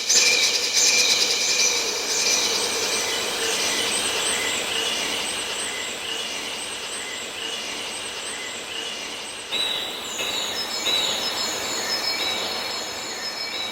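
Birdsong recording time-stretched and fed through a repeating stereo echo, so the chirps pile up into a dense, high, echoing wash over a faint steady synth tone. A new run of echoed chirps comes in about nine and a half seconds in.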